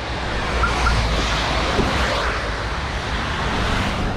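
Traffic noise on a wet road: a steady hiss with a low rumble, a little louder from about a second in.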